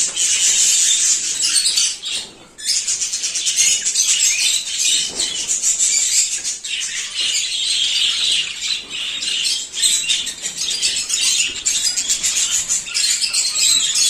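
A flock of caged budgerigars chattering and chirping non-stop, a dense twittering that drops out briefly about two seconds in.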